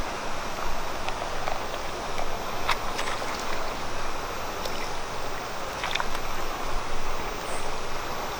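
Steady rushing noise like running water, with scattered small clicks and ticks.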